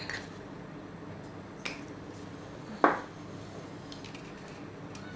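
Kitchen utensils clinking while spices are measured out: a couple of light taps of a spoon on a dish, then one sharper clink nearly three seconds in.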